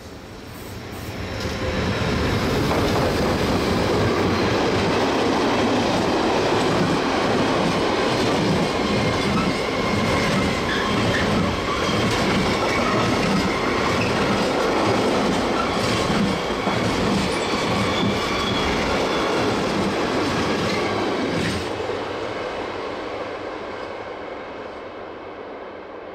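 A train passing on the Semmering mountain railway: wheels running and clacking over the rails with a thin high squeal. It builds up over about two seconds, holds steady for most of the time, then fades away over the last few seconds.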